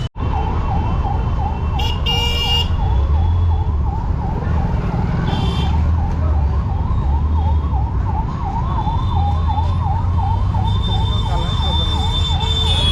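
Emergency vehicle siren wailing in a fast, steady up-and-down warble, a few cycles a second, over the low rumble of street traffic. Short, higher-pitched blasts cut in about two and five seconds in.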